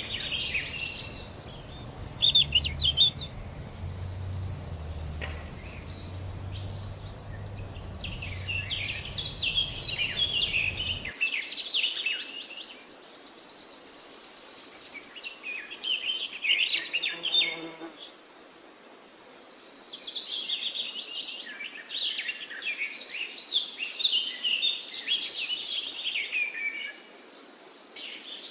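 Small birds chirping and singing in quick bursts of notes, alternating with high, steady buzzing trills. A low rumble underneath stops abruptly about eleven seconds in.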